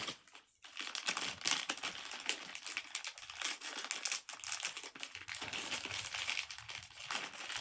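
Crinkly packaging rustling and crackling in irregular bursts as it is handled and opened, starting about half a second in.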